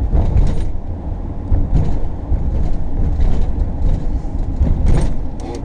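Road noise inside a moving RV: a steady low rumble with scattered rattles and knocks as the rig rides over rough pavement.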